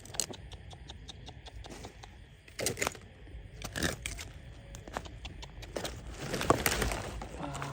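Irregular scraping, rustling and clicking of hands or a tool working through ground litter, with louder scrapes near the middle and a busier stretch near the end.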